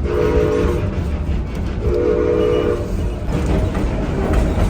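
Heritage train's locomotive whistle blown in two blasts, each just under a second, over the low rumble of the moving train.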